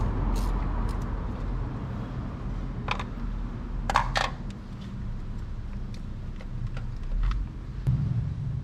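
A car engine starts suddenly and keeps running steadily, with a few sharp clicks about three and four seconds in.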